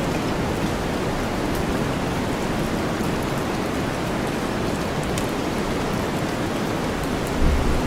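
Steady heavy rain blended with a deep white-noise hiss, with faint high drop ticks scattered through it. A low rumble of thunder begins near the end.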